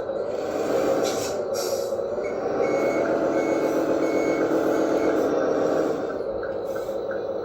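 An RC tractor truck's sound module plays a simulated truck engine running. It grows louder in the middle, where a reversing beeper sounds repeatedly for about three seconds, as the truck backs up.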